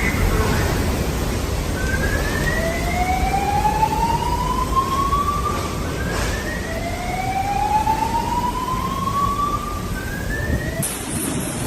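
Hurricane wind and rain blowing hard. Over the noise, a whining tone rises slowly in pitch three times, each rise lasting two to three seconds.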